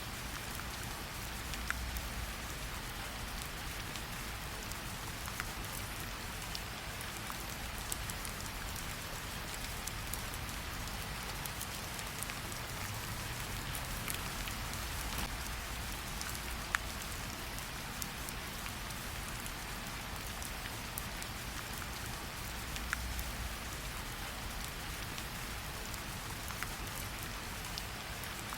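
Steady rain falling, with scattered sharp crackles and pops from a campfire mixed in over a low rumble.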